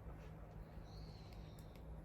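Wood fire crackling faintly with a few sharp pops, over a steady low hum. A thin high whistle sounds briefly about halfway through.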